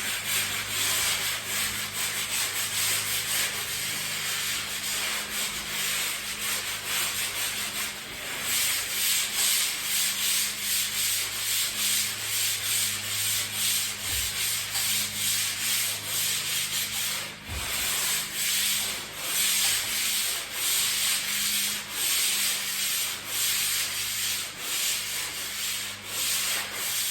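Hand sanding dried joint compound on a drywall patch with a sanding block: a steady run of scratchy back-and-forth strokes, about one or two a second.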